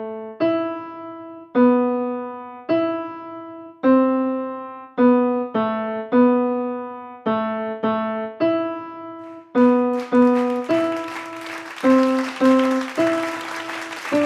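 A simple melody of single piano notes on a keyboard, each struck and fading, at about one note a second with some quicker pairs. About nine and a half seconds in, a hissing wash of noise joins under the notes.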